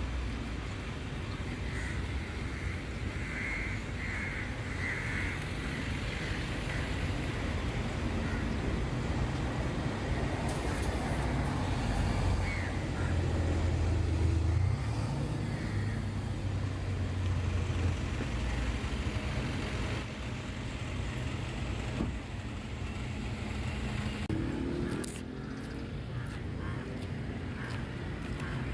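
Steady low engine rumble that swells for a few seconds in the middle, with a few short bird calls near the start.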